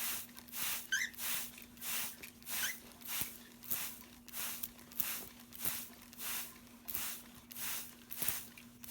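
Trigger spray bottle squirting water mist over and over in a steady rhythm, about three squirts every two seconds. A couple of faint cockatiel chirps about a second in.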